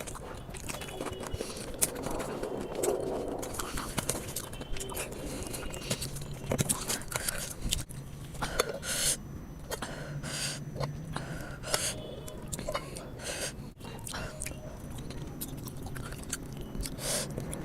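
A person chewing and eating rice and chicken curry close to the microphone, with irregular wet mouth clicks and small crunches.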